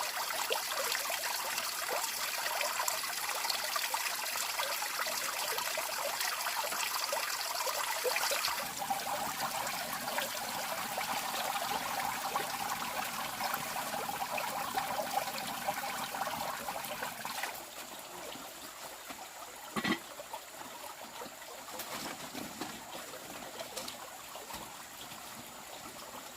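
Water running and trickling, its sound changing about a third of the way in and again past halfway, with one sharp knock about twenty seconds in.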